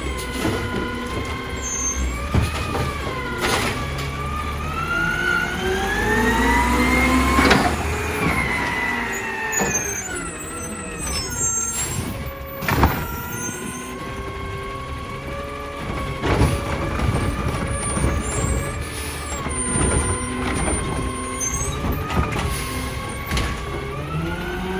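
Heil Durapack Rapid Rail side-loader garbage truck working: its engine and hydraulics rise and fall in pitch as it revs up and settles back several times, with several sharp bangs.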